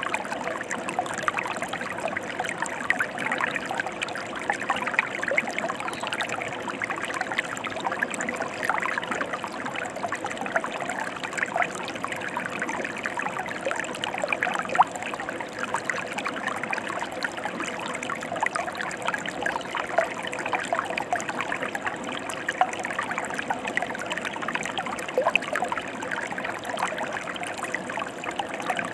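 Mountain stream flowing steadily, an even rush of water with many small splashes and gurgles throughout.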